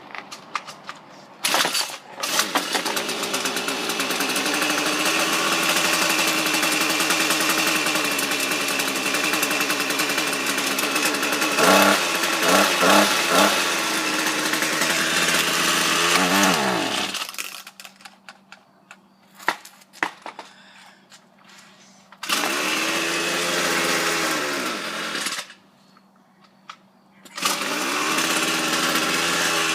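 Ryobi gas string trimmer engine firing on a cold start. It runs for about fifteen seconds, revs briefly when throttle is given, then slows and dies out. It is restarted and runs again twice, the first time dying after a few seconds. Giving it throttle makes it die off, the sign of a cold engine that won't hold running.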